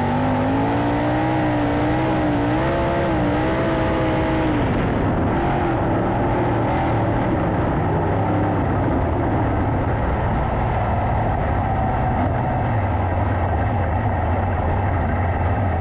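410 sprint cars racing on a dirt track, their engines running hard. For the first few seconds one engine's pitch rises and falls as it is throttled through the turns, then blends into a steady din of engines.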